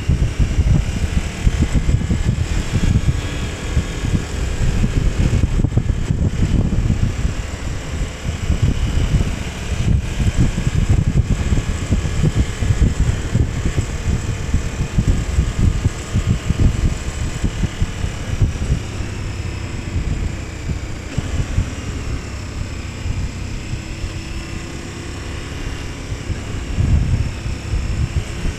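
KTM 1290 Super Adventure S's V-twin engine running while the bike is ridden, with heavy wind rush over the microphone. The engine note drifts up and down with the throttle.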